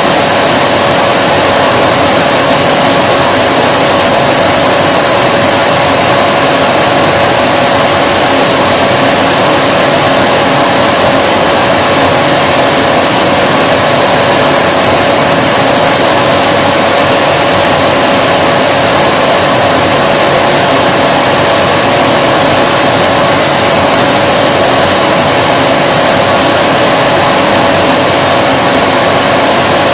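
Vacuum cleaner running steadily: a constant loud whooshing motor noise with a steady whine, unchanging throughout.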